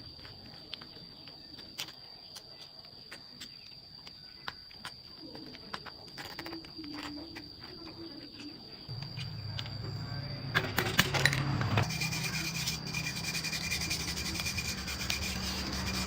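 Scattered light clicks and rubbing, then about nine seconds in a motor starts up and runs with a steady low hum and some loud clicks. A steady high-pitched insect-like trill runs throughout.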